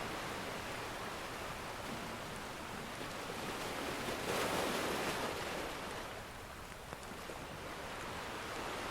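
Ocean surf washing steadily, with one wave swelling louder about four seconds in and then ebbing away. A few faint pops of a crackling wood fire come through the surf.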